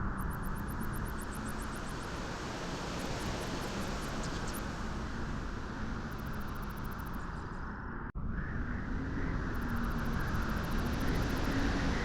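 Steady rushing beach wind with a faint wavering whistle underneath, broken by a momentary cut about eight seconds in.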